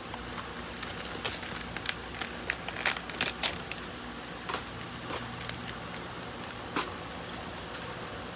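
Scattered light clicks and taps over a steady low hum: a small 1/64 scale die-cast model pickup being handled and turned over.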